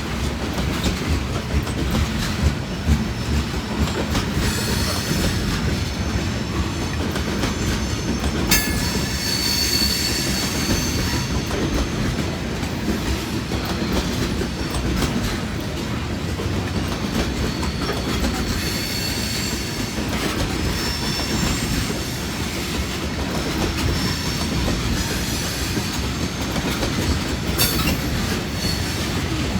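Long freight train's cars rolling past: a steady rumble of steel wheels on rail with clickety-clack over the rail joints. High-pitched wheel squeal rises above it about nine seconds in and again near twenty seconds.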